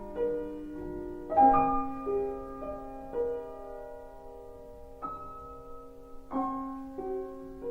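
Slow solo piano music: soft single notes and chords, each left to ring and fade before the next.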